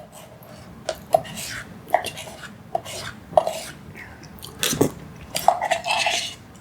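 Close-miked eating sounds: chewing, with cutlery clicking and clinking against a dish about ten times at irregular intervals.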